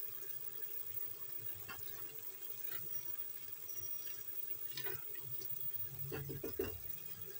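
Boiled black chickpeas sizzling and bubbling in ghee in an aluminium pressure cooker as they are fried. A few light metal clicks, then a short clatter near the end as the pot is handled.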